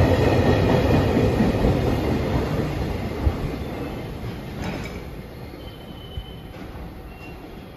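JR Freight container train's wagons rolling past, their wheel noise fading steadily as the last flatcar goes by and draws away. A couple of thumps come from the wheels midway, and a brief faint high squeal follows near the end.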